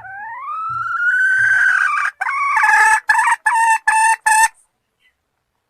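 Junglefowl hen calling: one long rising note lasting about two seconds, then five short clipped notes in quick succession.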